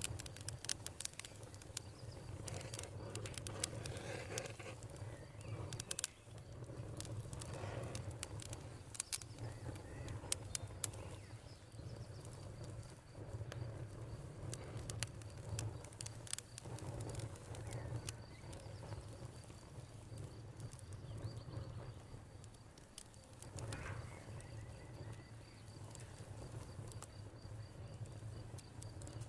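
Campfire crackling and popping, the pops thickest in the first ten seconds or so, over a low steady rumble. Crickets chirr faintly and steadily in the background.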